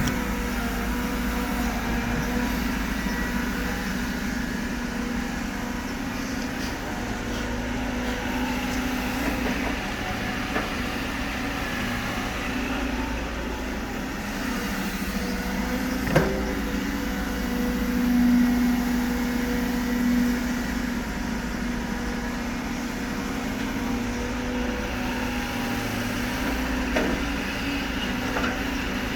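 Diesel engine of a CAT 313D2 GC excavator running steadily under work, with a few sharp knocks, the loudest about 16 seconds in, and a brief rise in engine sound shortly after.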